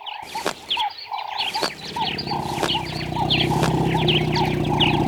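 Small birds chirping over and over in quick, short notes. About a second and a half in, a loud, low buzzing drone comes in underneath and keeps going, with a few sharp clicks in the first few seconds.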